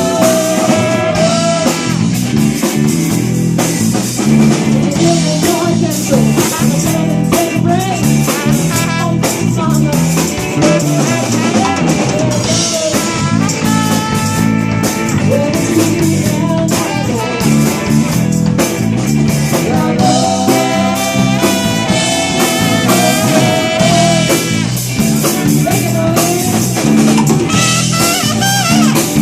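A blues band playing an instrumental passage between sung verses: a drum kit keeps the beat under a wavering lead melody line.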